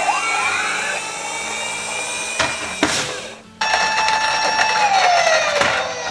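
Police sirens sounding, several overlapping wails and warbles with tones rising and falling. A couple of sharp clicks come just before the sound cuts out briefly near the middle. Afterwards one wail slides slowly down in pitch.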